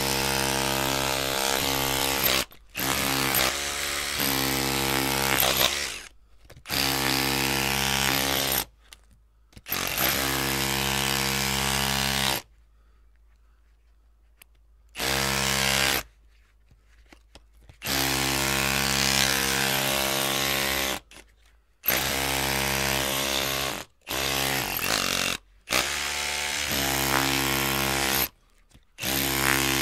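Electric drill running in repeated bursts of one to four seconds, switched on and off about ten times, each burst holding a steady pitch, with a longer pause near the middle.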